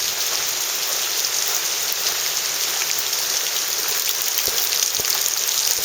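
Steady rain falling, with a few sharp taps in the second half.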